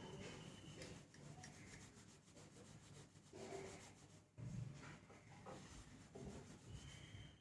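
Faint, irregular rubbing strokes of wet hair being worked, with short pauses between strokes.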